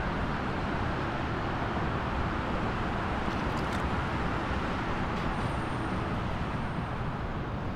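Steady road-traffic noise, the even rumble and hiss of motor vehicles running.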